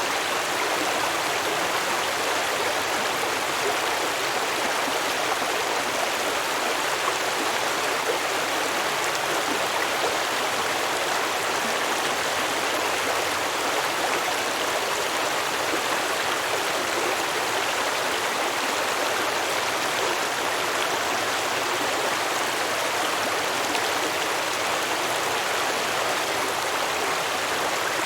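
A small stream running over rocks, a steady, even babble of flowing water.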